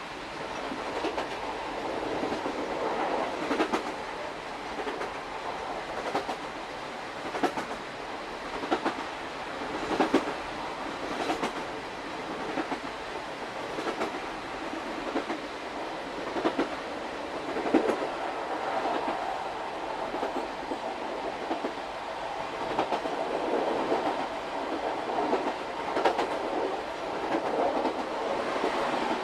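Old-style Suhafu 42 passenger coach running over jointed rail, heard at the car end: a steady rumble with sharp wheel clicks at the rail joints every second or two.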